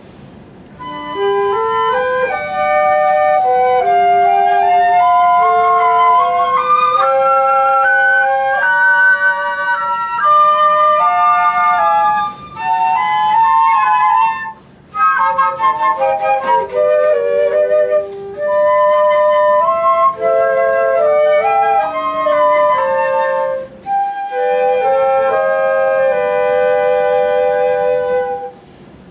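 Flute music: a melody played in phrases of held and moving notes, with several short pauses between phrases. The playing stops shortly before the end.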